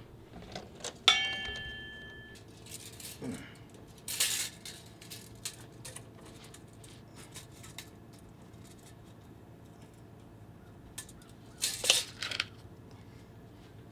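A sharp metallic clink about a second in that rings for about a second, then scattered light clicks and two short scuffing noises, one near the middle and one near the end: metal tools being handled around a steel exhaust pipe.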